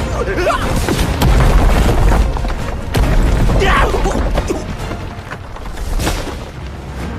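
Animated fight sound effects over dramatic soundtrack music: heavy booms and crashing impacts. The deepest rumble comes about a second in, with sharp hits around three and six seconds in.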